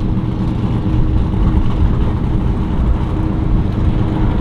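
An engine running steadily at idle, with wind rumbling on the microphone.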